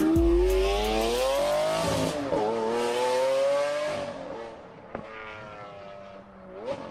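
Car engine revving sound effect: the pitch climbs, drops once about two seconds in, climbs again and fades out after about four seconds. A click comes near five seconds and a short rising sweep near the end.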